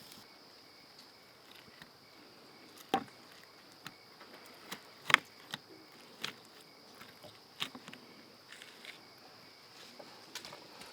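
Steady high insect chirring, as of crickets, with scattered sharp clicks and taps; the loudest click comes about five seconds in.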